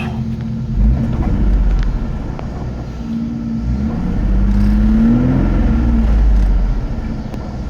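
2000 Ford Mustang's 3.8-litre V6 revved twice from idle, a short rev about a second in and a longer one held for a few seconds, each dropping back to a smooth idle. The owner notes a small exhaust leak as the source of its noise.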